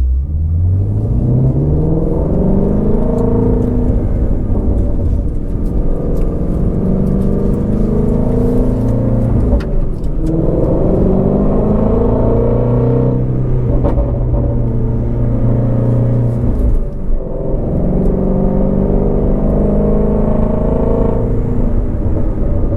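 2019 Shelby GT350R's 5.2-litre flat-plane-crank V8 running under way: the revs climb in the first few seconds, then hold fairly steady, with several breaks where the pitch drops and picks up again. A couple of brief sharp clicks sound in the middle, and the sound cuts off suddenly at the end.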